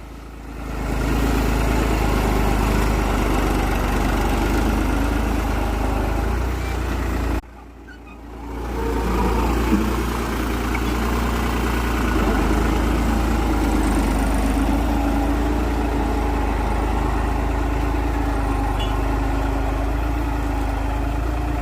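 Tractor engine running steadily. About seven seconds in it drops away abruptly, then builds back up over a second or two and runs on steadily.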